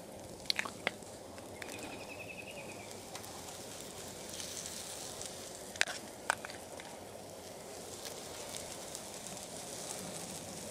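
Potato cakes frying in bacon grease on a Blackstone flat-top griddle: a steady, fairly quiet sizzle, with a few sharp clicks about half a second in and twice more around six seconds in.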